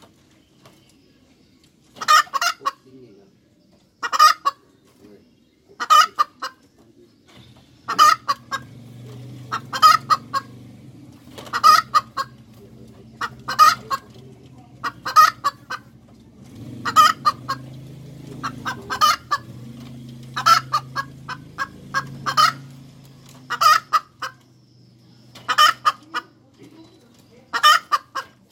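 Hen cackling: a burst of short, sharp clucks repeated about every two seconds, over and over.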